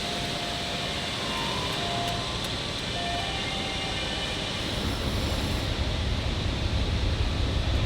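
Heavy machinery running with a steady noise; about five seconds in, a deeper rumble sets in and grows louder.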